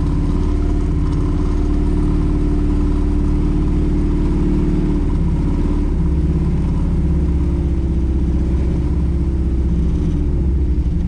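Cammed Chevy small-block V8 running steadily just after a cold start, its carburetor without a choke, and not yet warm enough to idle on its own.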